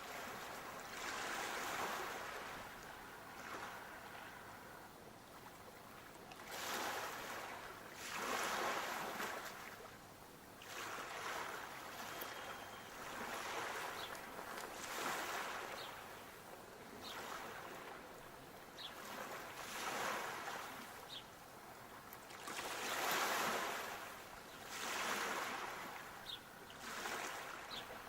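Sea waves washing onto the shore, the surf swelling and fading again every few seconds.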